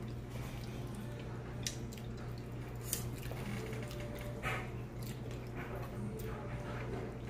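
Wet mouth sounds of someone chewing baked turkey wing, with scattered short clicks and smacks.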